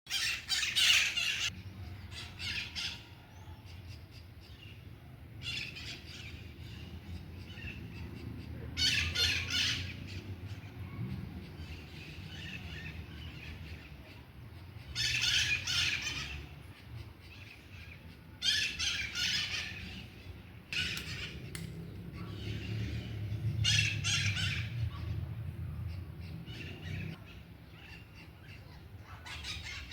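Harsh bird squawks: calls about a second long, repeated every few seconds, over a low steady rumble.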